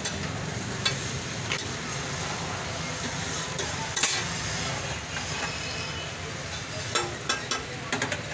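Egg-coated shami kebab patties frying in oil on a flat iron griddle, sizzling steadily, with scattered sharp pops and clicks, several close together near the end.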